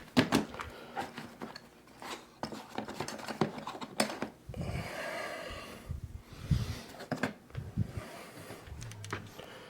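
Hands working on the electric furnace's parts and wiring: a series of sharp clicks and knocks, with a stretch of rubbing and scraping about halfway through.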